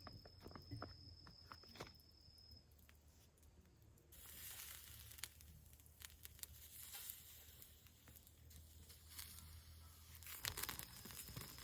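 Faint wood fire crackling, a soft hiss with scattered sharp snaps that grow denser and louder near the end.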